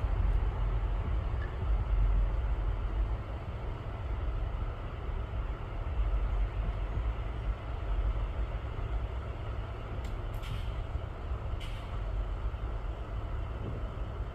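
Steady low rumble of vehicle noise, with two short hissing sounds about ten and twelve seconds in.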